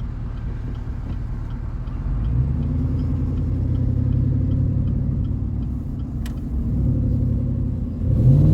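2021 Chevrolet Silverado 1500's 6.2-litre V8 running through a Walkinshaw full exhaust system while driving, a deep low rumble. It grows louder about two seconds in, eases off near seven seconds, and starts climbing in pitch just before the end as the engine revs up.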